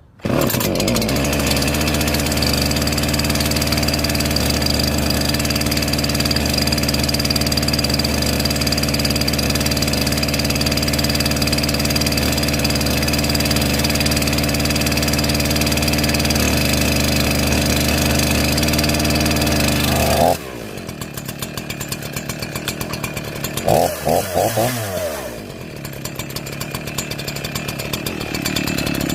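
Echo CS-4910 two-stroke chainsaw engine catches suddenly and runs at a steady high speed for about twenty seconds, then drops abruptly to a lower, ticking idle. A couple of quick throttle blips rise and fall a few seconds later, and it then runs on at lower speed, slowly getting louder near the end.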